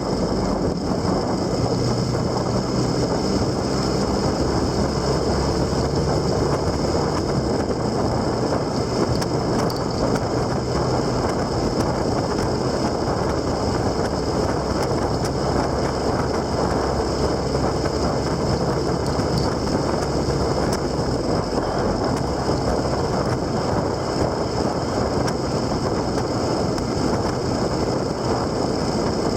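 On-board riding noise from a vehicle at steady speed: a low engine hum under wind rushing over the microphone, with no change through the stretch.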